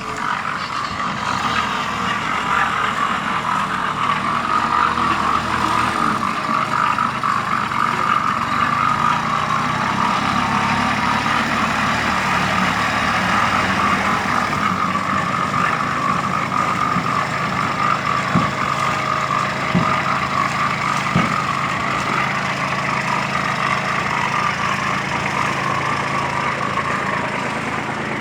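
Mini tractor engine running steadily. Three short knocks come a little over a second apart about two-thirds of the way through.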